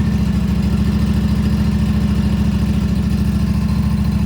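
Kawasaki FS600V V-twin engine on a stand-up lawn mower running steadily and warm, with even firing pulses, right after a fresh oil change.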